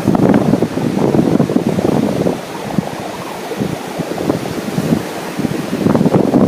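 Wind buffeting the microphone in irregular gusts, a loud low rumble that eases off in the middle and picks up again near the end.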